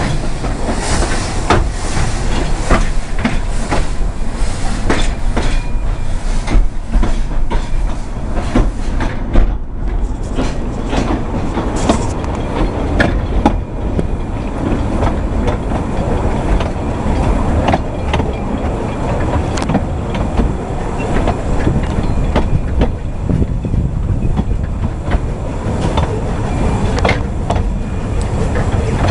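A narrow-gauge passenger train running along the track, heard from an open carriage window: a steady rumble with irregular clicks of the wheels over the rail joints.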